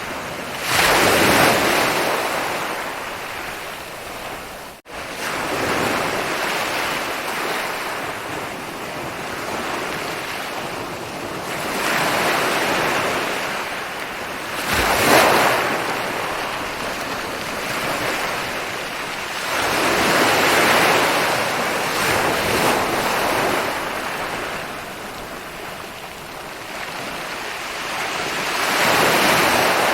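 Ocean waves rolling in and breaking on a beach, about six surges of surf that swell and wash out every few seconds. There is a momentary dropout about five seconds in.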